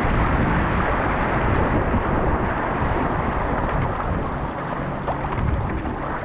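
Strong wind buffeting the microphone over rushing sea water and waves, a steady heavy roar.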